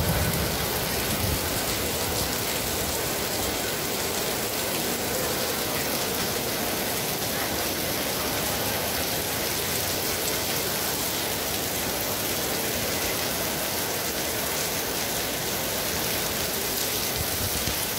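Heavy rain pouring down in a steady downpour, an even hiss that doesn't let up.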